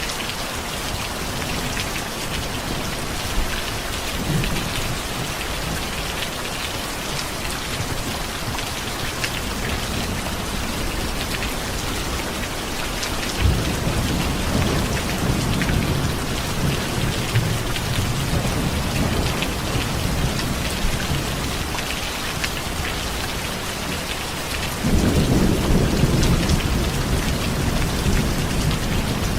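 Steady rain falling and pattering on surfaces, with thunder: a low rumble rolls in about halfway through and a louder one near the end.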